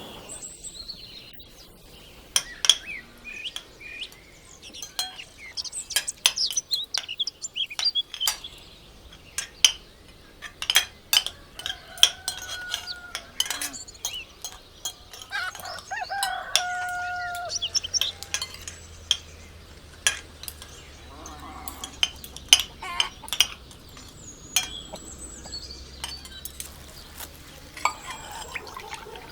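Domestic chickens clucking and a rooster crowing, one held crow about midway, among many short, sharp bird chirps.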